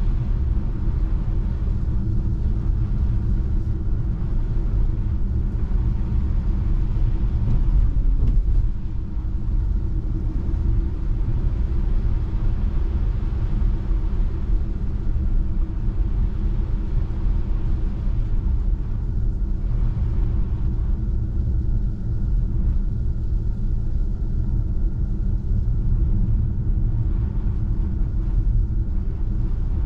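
Tyre and road noise of a Tesla Model 3 driving on a snow-covered road: a steady low rumble that eases slightly about eight seconds in.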